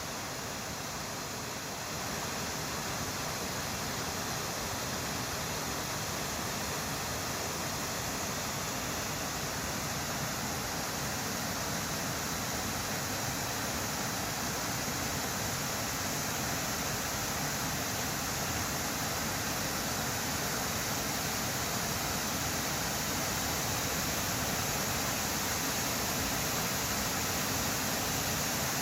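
Waterfall: a steady rush of falling water, a little louder about two seconds in.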